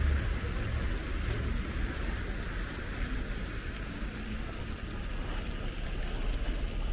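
City street traffic: a vehicle's low rumble dies away just after the start, leaving a steady background hum of traffic.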